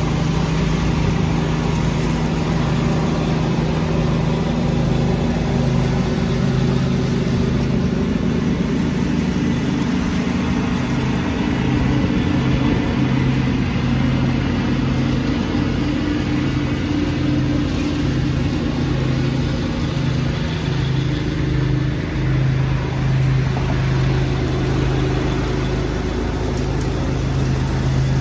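Lawn tractor engine running steadily while vacuuming leaves, its even hum mixed with the airy rush of the leaf vacuum, with a slight dip in level a little past two-thirds through.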